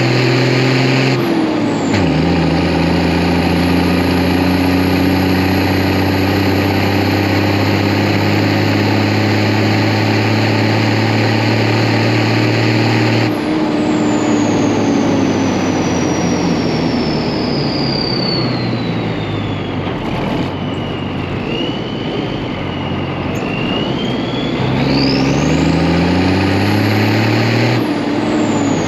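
Deuce-and-a-half military truck's turbocharged diesel engine running under changing load, with the high whistle of its Schweitzer Whistler turbo. The engine note jumps in pitch several times, and the turbo whistle falls slowly through the middle, then climbs again near the end as the engine speeds up.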